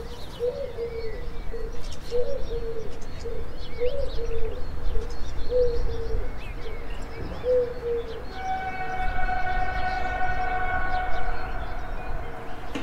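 Birds calling: repeated low cooing notes about once a second, with faint higher chirps over a low rumble. From about eight seconds in, a long steady held tone of several stacked pitches takes over.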